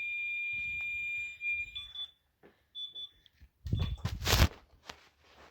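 An electronic warning buzzer on a New Holland tractor dashboard sounds a steady high tone that cuts off under two seconds in, followed by a few short beeps. About four seconds in comes a brief loud rustle and knock of handling noise.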